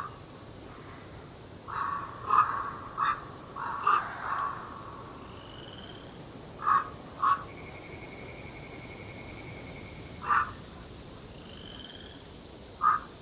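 Forest birds calling: loud, short, harsh calls come in a quick cluster a couple of seconds in and then one at a time every few seconds. A second bird gives a steady high trill of about two and a half seconds midway, and there are a couple of brief thin whistles.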